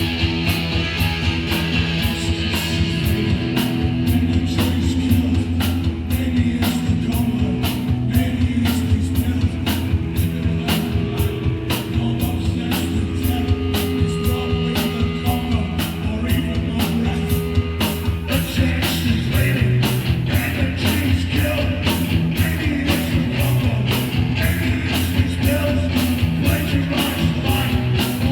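A hardcore punk band playing live: distorted guitar, bass and a steady, driving drum beat. The cymbals grow louder and busier about 18 seconds in.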